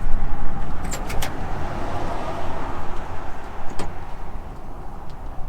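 Ford Coyote 5.0 V8 in a 1969 Bronco on a cold start, firing up and running at a fast cold idle. A few short clicks come about a second in.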